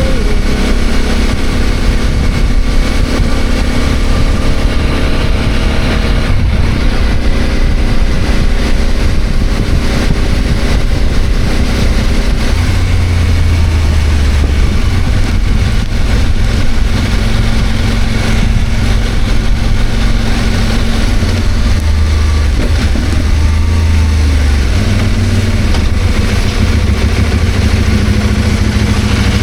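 CFMOTO 800MT's parallel-twin engine running steadily under way, with a heavy low rumble of wind noise. The engine note shifts in pitch about six seconds in and again around thirteen seconds.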